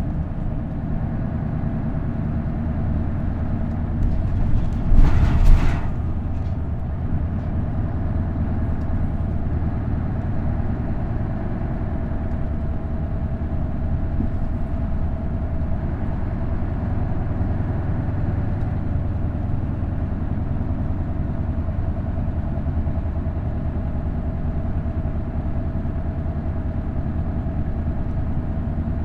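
Isuzu Erga city bus's V8 diesel engine running steadily, heard from inside the cabin. About five seconds in, a short, loud hiss cuts across it.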